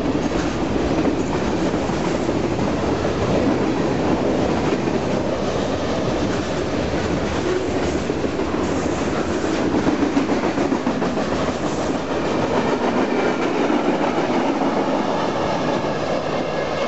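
Freight cars of a BNSF mixed freight train rolling past close by: a steady rumble of steel wheels on rail with clacking over the rail joints.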